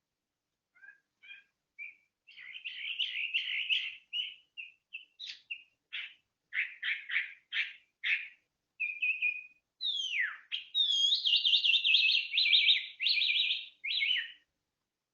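A songbird singing a varied song of chirps and trills: a few short notes at first, then rapid runs and separate calls, ending in a long fast run of repeated notes from about ten seconds in.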